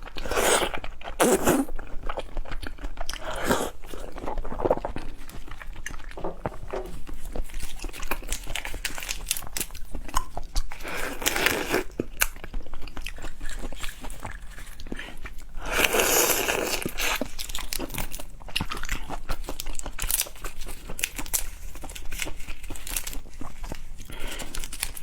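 Close-up eating sounds of spicy marinated lobster: irregular crunching bites, crackles and chewing, with two longer, louder stretches about eleven and sixteen seconds in.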